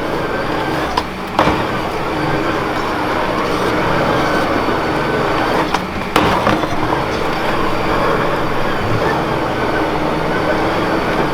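Steady vehicle running noise, a constant drone with a few sharp clicks, about a second in and again near the middle.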